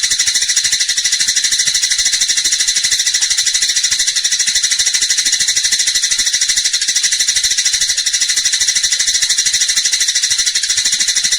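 Eurasian tree sparrow (burung gereja) giving its excited 'fighting' chatter: a fast, even string of high, dry notes, well over ten a second, without a break.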